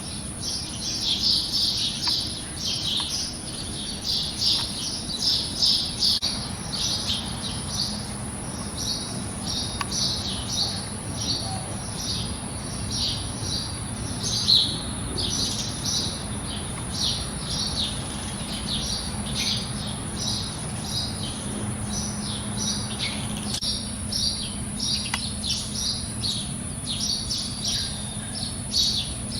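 Birds chirping: a continuous run of short, high chirps, several a second, with little pause throughout.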